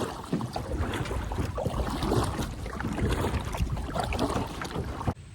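Kayak being paddled: irregular paddle splashes in the water, with wind rumbling on the microphone. The sound cuts off abruptly near the end.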